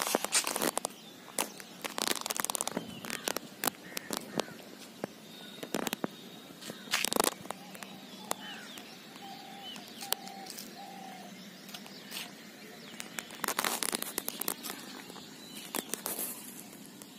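Outdoor ambience with scattered clicks and rustles close to the microphone. A few short bird chirps come through about halfway.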